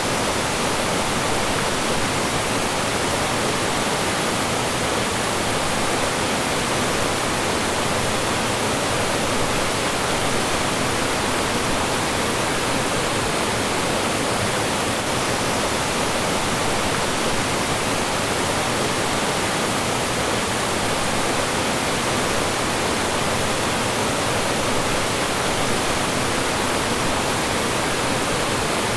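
Mountain stream rushing and splashing over rocks and small falls, a steady, full rush of water.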